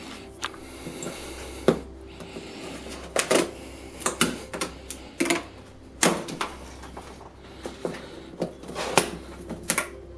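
Irregular taps, knocks and scrapes from handling a big cardboard box and its packaging as it is opened.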